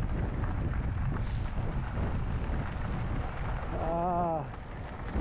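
Wind buffeting the microphone of a camera carried on a moving e-bike: a steady low rumble. About four seconds in, a person makes a short voiced sound.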